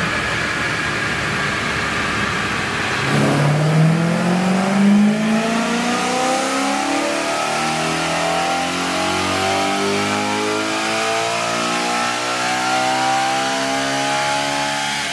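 Dinan-tuned BMW M3 engine on a chassis dyno, running steadily, then, about three seconds in, dropping briefly and climbing steadily in pitch through a long full-throttle pull.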